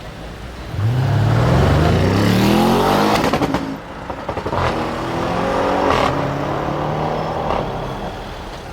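Audi RS6 Avant C7's twin-turbo V8 with the optional Audi Sport exhaust accelerating hard: the engine note rises sharply about a second in, breaks off with a few cracks around four seconds in at a gear change, then climbs again through the next gear and fades away.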